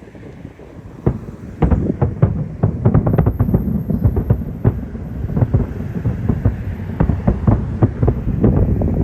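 Aerial fireworks shells bursting in a rapid barrage, many booms in quick succession over a continuous low rumble, starting about a second in.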